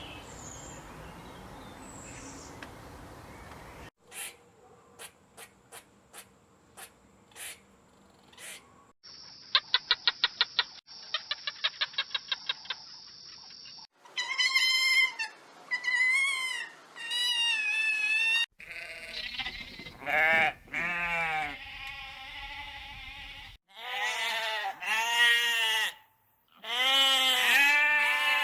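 A string of short animal-call clips joined with abrupt cuts. It opens with a few sharp clicks and rapid pulsing, then high pitched calls. The second half holds repeated bleating, several calls each lasting about a second.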